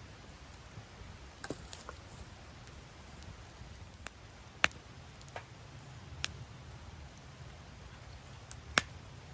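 Wood fire crackling, with scattered sharp pops over a low, steady rumble. The two loudest pops come about halfway through and near the end.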